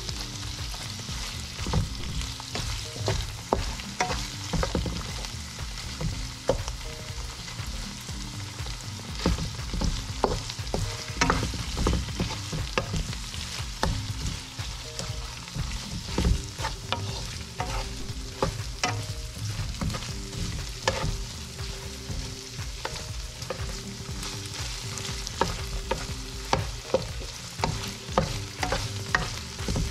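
Pork and shrimp frying in a nonstick wok with a steady sizzle while a wooden spatula stirs and scrapes them, its strokes against the pan making frequent clicks and taps.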